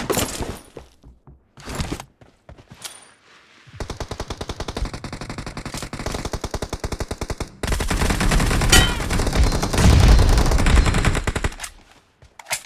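Video-game automatic gunfire. A few separate shots in the first couple of seconds, then sustained rapid fire from about four seconds in. It grows louder and heavier about eight seconds in and stops shortly before the end.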